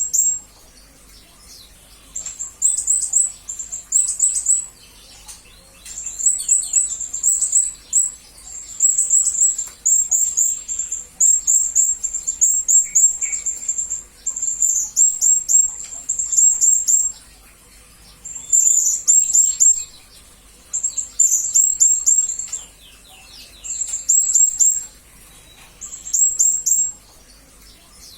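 Blue-crowned hanging parrot (serindit) calling: bursts of very high, thin chirps in quick succession, each burst lasting about a second, repeated after short pauses.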